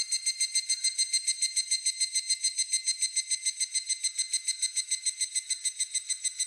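Higurashi (evening cicada) calling: a high, ringing tone pulsed rapidly and evenly, about eight pulses a second, the 'kana-kana-kana' song.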